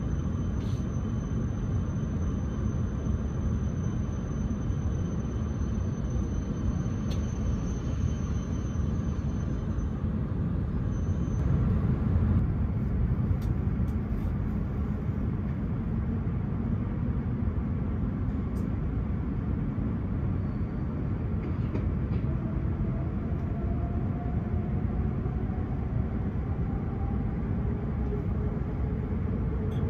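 Inside the passenger car of a W7 series Shinkansen, a steady low rumble while the train stands at the platform. From about two-thirds of the way in, a motor whine rises steadily in pitch as the train starts off and accelerates away from the station.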